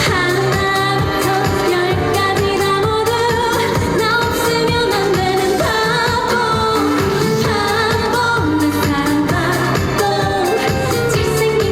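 A woman singing a trot-style pop song live over a backing track with a steady beat.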